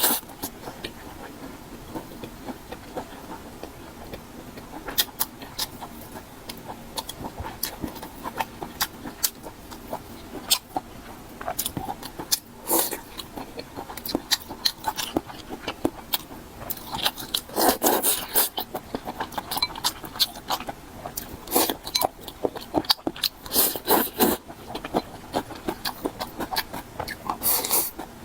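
Close-miked eating sounds: chewing and crunching mouthfuls with many short, sharp mouth clicks and smacks, and a few longer, louder bites.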